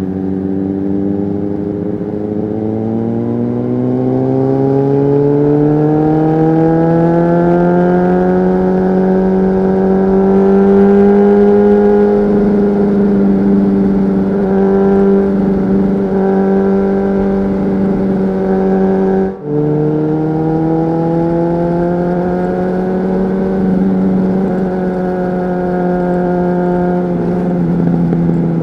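Honda CBR600RR inline-four with a Leo Vince aftermarket exhaust, ridden under power. The engine pitch climbs steadily over the first several seconds and then holds. About two-thirds of the way through, a quick upshift briefly cuts the sound and drops the pitch, which then rises again.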